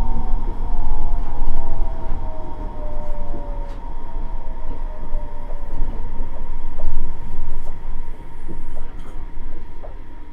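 Nippori-Toneri Liner 330-series rubber-tyred automated guideway train running, heard inside the car: a low rumble under a motor whine that slides down in pitch as the train slows for a station. Faint evenly spaced ticks come in the second half.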